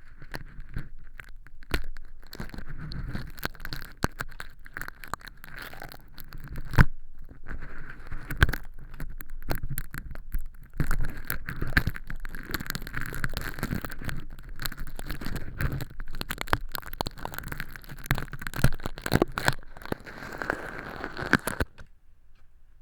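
Crinkly crash-hologram film, made up as fake earwax, crackling and snapping as it is scraped and peeled off the inside of a silicone ear model, with many sharp clicks of the tool. The crackling stops suddenly near the end.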